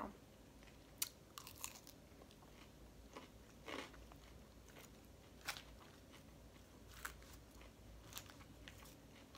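Quiet close-up chewing and crunching of a mouthful of salad lettuce, with a few short sharp crunches and clicks spaced a second or two apart.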